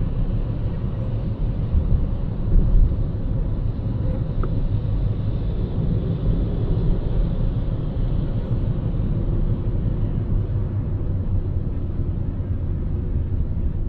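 A car driving along a city road: a steady low rumble of road and engine noise, with no sudden events.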